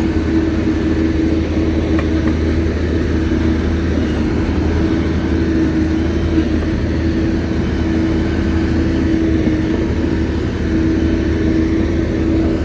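Shantui bulldozer's diesel engine running steadily under load, with a deep rumble and a steady hum, and a slight dip in level near the end.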